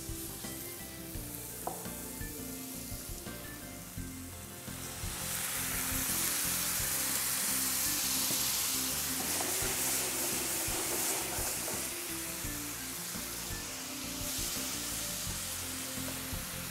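Marinated chicken frying in hot spiced masala in a frying pan and being stirred with a spatula: a steady sizzle that grows much louder about five seconds in, as the raw chicken meets the hot oil, with a few light spatula knocks against the pan before that.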